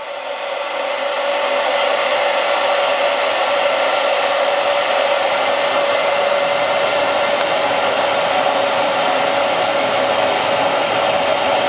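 Hair dryer running and blowing steadily: a loud rush of air with a steady motor whine. It builds up over the first second or two, then holds level.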